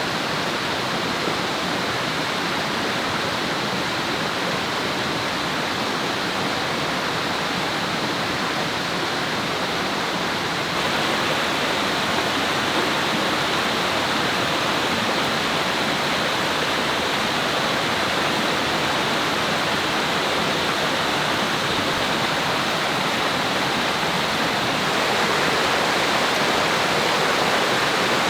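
A river rushing steadily, an even wash of flowing water. It gets a little louder about eleven seconds in and again near the end.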